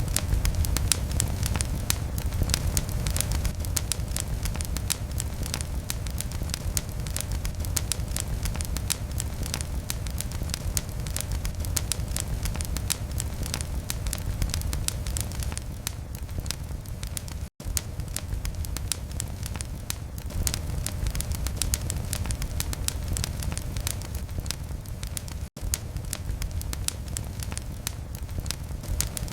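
Wood fire burning in a fireplace, with a steady low rumble and a dense stream of sharp crackles and pops. The sound cuts out for a split second twice, in the second half.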